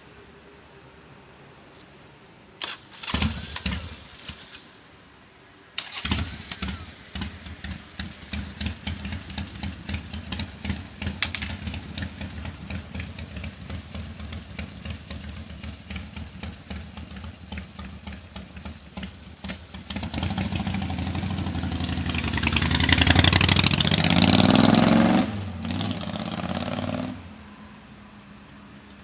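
Buell XB12S air-cooled V-twin engine, running on a newly fitted points ignition, being started: a brief first try about three seconds in, then it catches about six seconds in and runs with an uneven pulsing idle. It is revved up from about twenty seconds, held high, and then dropped, and it shuts off near the end.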